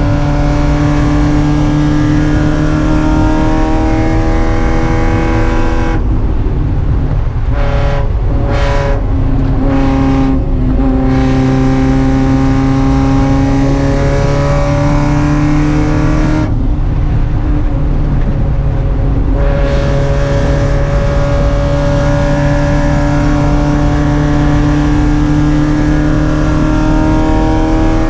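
Spec Miata race car's four-cylinder engine under racing load, its pitch climbing steadily through the gears. It lets off several times in quick succession about a quarter of the way in, and once for a few seconds past the middle, before pulling hard again.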